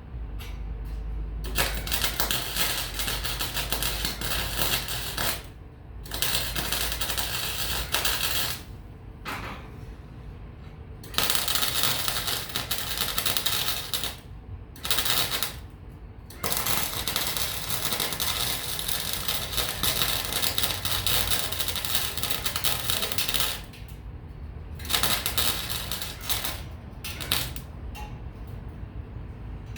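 Electric welding arc crackling and sputtering in several runs of a few seconds each, with short pauses between welds.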